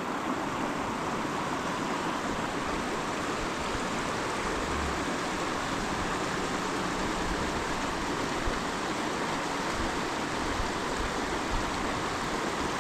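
A mountain river flowing, a steady, even rush of water.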